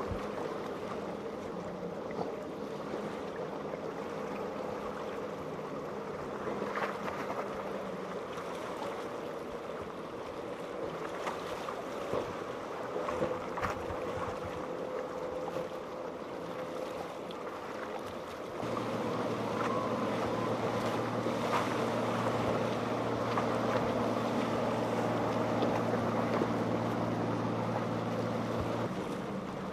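Boat engines running with the wash of waves and wind. About two-thirds of the way through, a deeper, louder engine drone comes in; it stops shortly before the end.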